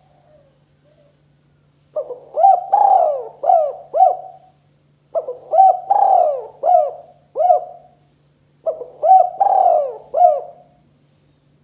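Spotted dove (tekukur) cooing: three phrases of about five short coos each, with short pauses between them.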